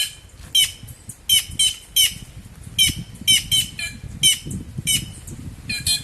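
A group of white-naped jays (cancão, quem-quem) giving short harsh alarm calls in quick succession, about two or three a second. It is mobbing calls at an intruder hidden in the tree, which the observer suspects may be a snake.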